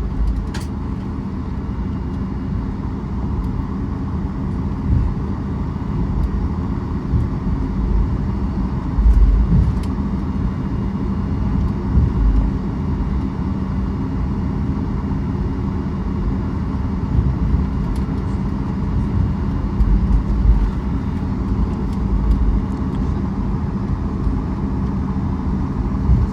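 Cabin noise of a Boeing 737 MAX taxiing after landing: a steady low rumble from the CFM LEAP-1B engines at idle and the rolling airframe, with a few heavier low thumps from bumps in the taxiway.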